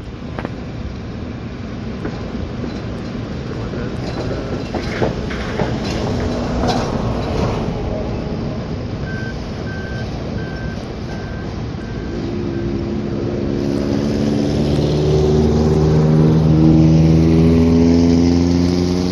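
Steady road traffic noise, with a backup alarm beeping about six times in the middle. Near the end a vehicle's engine accelerates, rising in pitch and growing louder as it comes close.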